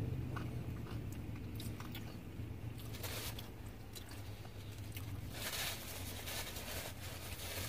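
Close-up chewing and small mouth clicks of a person eating, over a steady low hum, with a brief rustle a little past the middle.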